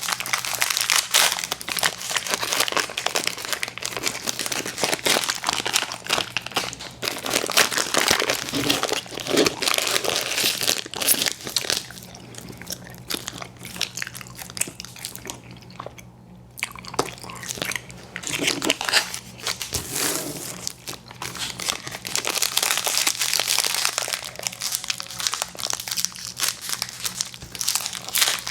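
Close-miked chewing and smacking of chewy fruit candy (Airheads Bites and Tootsie Fruit Chews), with crinkling of plastic candy wrappers. The sounds thin out for a few seconds about halfway through, then pick up again. A faint steady hum runs underneath.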